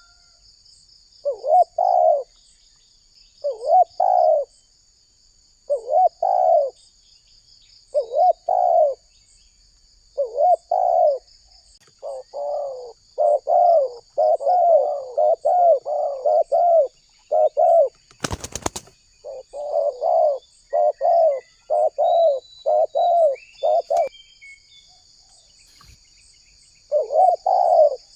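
Spotted dove (tekukur) cooing over and over: double-note coos about every two seconds at first, then a quicker run of coos, a pause, and more coos near the end. A sharp click sounds about 18 seconds in, and a faint steady high-pitched insect trill runs underneath.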